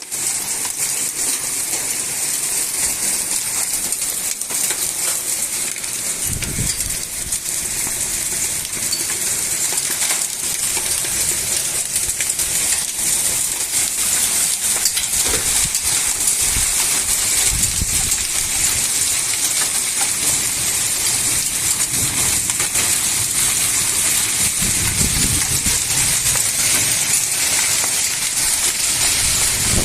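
Heavy summer rain pouring steadily, with hailstones clicking and ticking on hard surfaces throughout. A few low rumbles swell and fade along the way.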